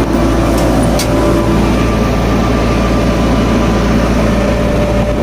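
Heavy diesel engine running steadily with a constant low rumble and a steady hum. A brief click comes about a second in.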